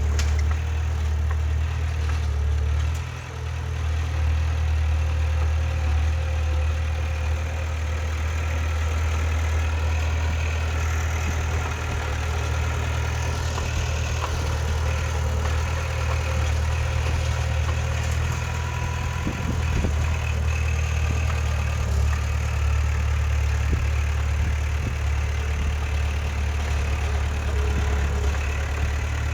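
Heavy earthmoving machine's diesel engine running steadily, with a brief dip in loudness about three seconds in.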